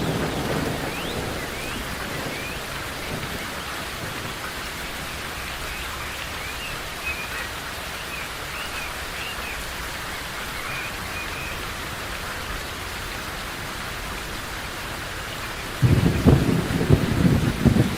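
Steady rain with thunder: a low rumble dies away in the first second, and a sudden loud thunderclap breaks about two seconds before the end and rumbles on. Birds chirp faintly through the rain in the first part.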